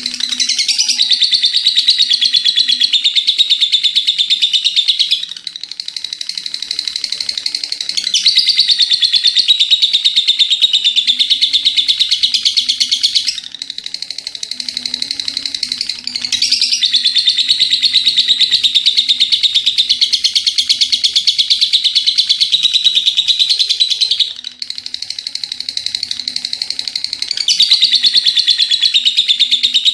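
Lovebird singing long 'ngekek' bouts: very rapid, loud chattering trills held for about five to eight seconds at a time. There are four bouts, with short spells of quieter chatter between them.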